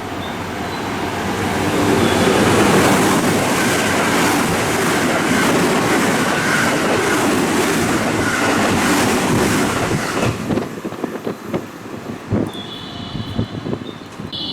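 An electric train running past on the platform track, a loud steady rush of wheels and air that builds over the first two seconds and holds for about eight. It thins out into a run of sharp wheel clicks over the rail joints as the last cars go by. Steady high tones begin near the end.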